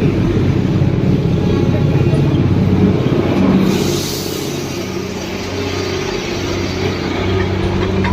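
A motor vehicle's engine running with a steady low hum, and a brief hiss about four seconds in.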